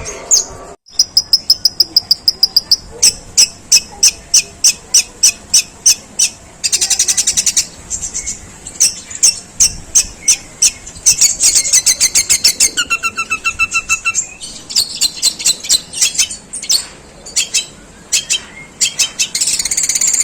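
Long-tailed shrike singing a long, harsh run of rapid, sharp notes in sparrow-like style, several a second. Short steady trills come in about a second in and again near the middle.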